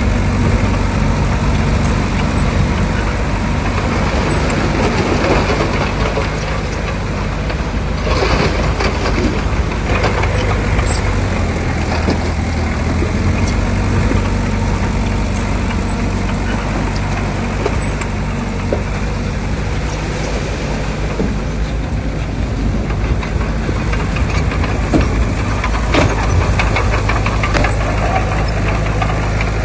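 Heavy diesel earthmoving machinery running steadily with a low engine hum, with a few short clanks about a third of the way in and again near the end.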